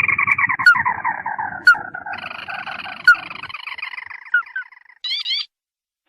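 Recorded crake lure call: a long, rapid trill that slowly falls in pitch over about five seconds, with a few sharp short notes over it. Near the end comes a short phrase of rising whistled notes.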